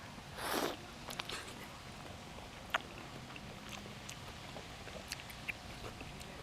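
A person chewing food, with scattered small crunching clicks, after a short hissy burst about half a second in.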